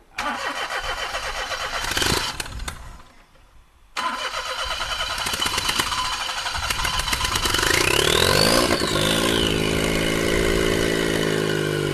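Half-cut car petrol engine being started: the starter cranks, pauses, cranks again, and about eight seconds in the engine catches, revs up and falls back to a steady idle. It has long sat unstarted and fires on petrol fumes from a petrol-soaked cloth held at the air box.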